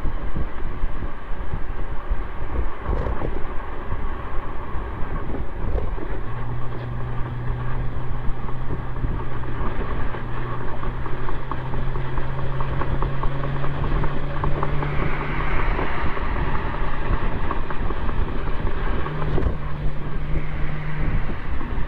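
Exhaust of a 2004 Mercedes-Benz C320 coupe's 3.2-litre V6, picked up by a microphone just outside the tailpipe while the car is driven, with wind and road rumble. A steady exhaust hum appears about six seconds in and steps up in pitch later on.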